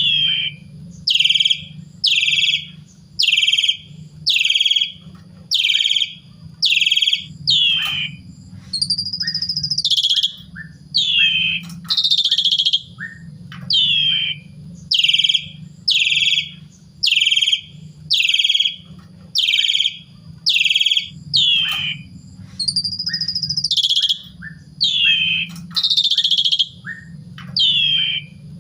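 Pied starling (jalak suren) calling loudly and repeatedly: a falling note about once a second, broken twice by a longer rising-and-falling whistle. A steady low hum runs underneath.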